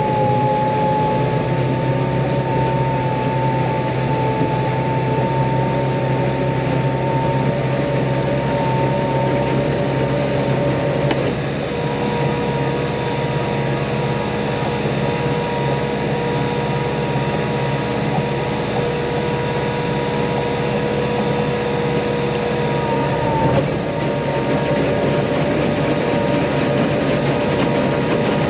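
Tractor running steadily while driving a muck spreader, with a steady whine over the engine's hum. The whine's pitch shifts slightly about 11 seconds and again about 23 seconds in.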